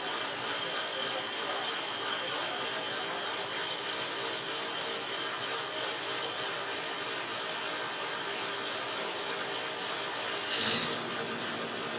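A small machine running steadily, with a brief louder burst of noise about ten and a half seconds in.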